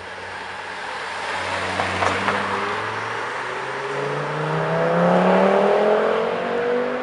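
Audi TT coupé driving past and accelerating away, its engine note rising steadily in pitch as it revs up through a gear, loudest about five seconds in.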